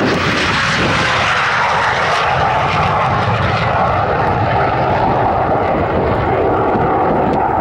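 MiG-17F jet fighter's afterburning Klimov VK-1F turbojet running at high power: a loud, steady jet roar with a whine held over it.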